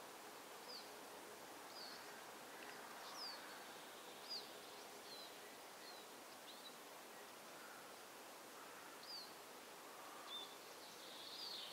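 Small birds calling faintly, short high chirps every second or so over a soft steady hiss of woodland ambience, with a quick run of twittering near the end.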